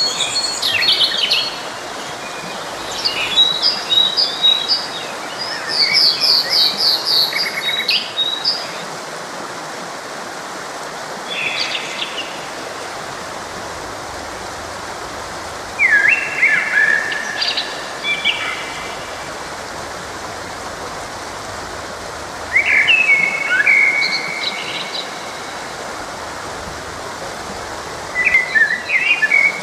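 Songbirds singing in short phrases every few seconds, including a quick run of repeated notes, over the steady rushing of a forest stream.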